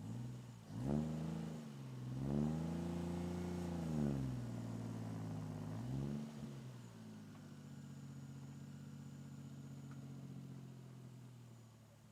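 Toyota 1JZ-GTE straight-six with a high-flow turbo and Blitz Nur-Spec catback exhaust, revved four times. Two are quick blips, one is a short rev, and one is held for about two seconds before falling back. It then settles to a steady idle about seven seconds in.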